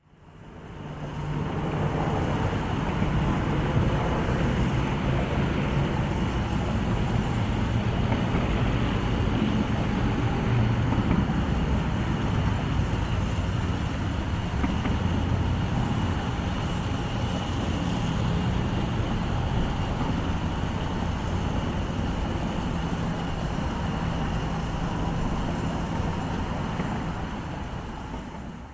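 Military aircraft engines running with a steady drone and low hum, swelling in over the first couple of seconds and easing off a little near the end.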